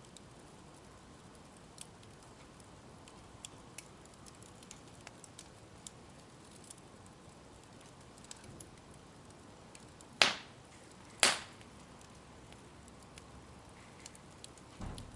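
Wood bonfire crackling softly, with scattered small ticks. About two-thirds through come two sharp, loud pops a second apart, and near the end a low dull thump.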